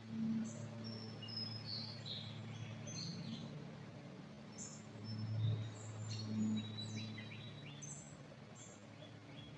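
Wild birds chirping and calling, with short high notes and quick downward sweeps scattered throughout, over a low steady background rumble.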